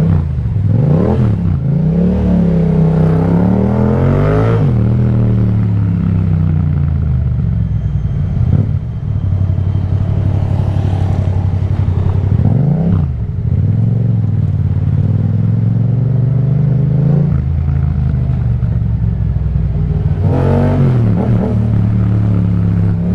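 Yamaha MT-07's 689 cc parallel-twin engine through an Akrapovic exhaust, pulling under way. Its pitch climbs and drops several times as the rider accelerates and shifts gear, with one long run up in the first few seconds.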